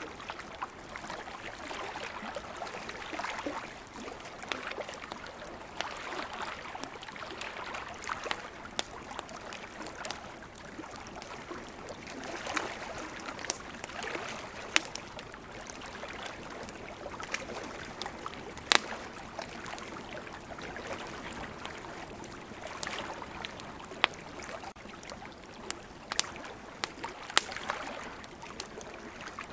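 Campfire crackling, with sharp pops scattered irregularly throughout, over a wash of ocean waves that swells and fades every few seconds.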